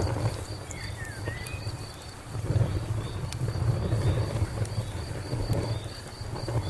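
Fire crackling with a low rumble and a few sharp pops, over steady cricket chirps at about three a second.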